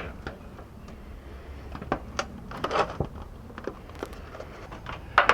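Scattered light clicks and knocks, several over a few seconds, from handling sheet metal and screws while fitting them to a post.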